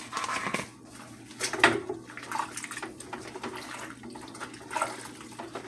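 Kitchen tap running into the sink, water splashing unevenly, with one sharp clatter about one and a half seconds in.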